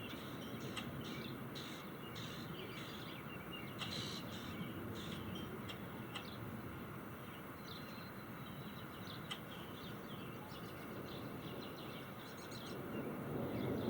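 Birds chirping many times in quick short calls over a steady low outdoor rumble, which swells slightly near the end.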